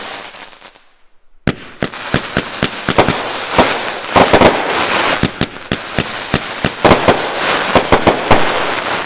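Consumer fireworks going off: a fading hiss, a brief lull, then from about a second and a half in a dense run of sharp bangs over steady crackling that cuts off suddenly at the end.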